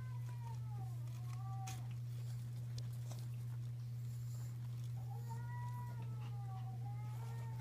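Cat meowing in two bouts of long, drawn-out, wavering meows, the second bout starting about five seconds in, over a steady low hum.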